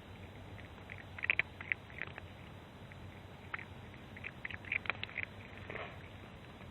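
A cat eating, with irregular soft crunching and clicking as it chews, in clusters about a second in and again near five seconds.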